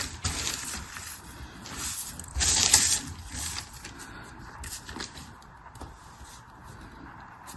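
Rustling and scraping of packaging being handled and opened, in uneven bursts, the loudest about two and a half seconds in, easing off to softer, scattered handling noises in the second half.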